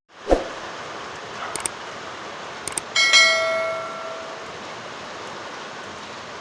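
Steady rain, with a thud just after the start and a couple of small clicks. About three seconds in, something metal is struck and rings, dying away over about a second and a half.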